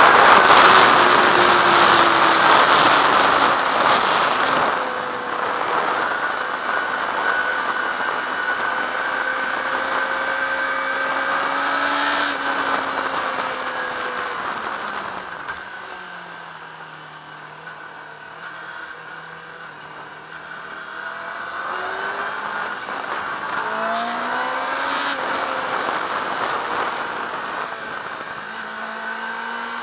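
Yamaha R6's inline-four engine heard from on board at track speed, with heavy wind rush over the first few seconds. The revs fall away through the middle to a quieter low hum, then climb again in rising sweeps through the gears.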